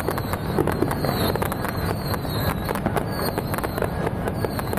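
Fireworks going off in a dense, continuous run of rapid bangs and crackles.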